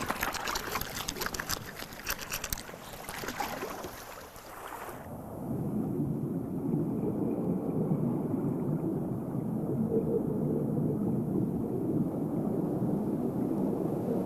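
Water splashing and bubbling with many small crackles for about five seconds, then a steady, muffled low rush of water with the high end gone.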